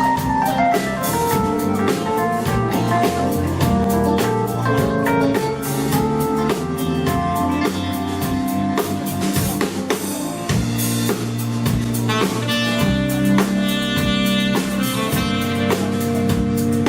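Live band playing an instrumental passage: drum kit keeping a steady beat under bass and keyboards, with a saxophone coming in about twelve seconds in.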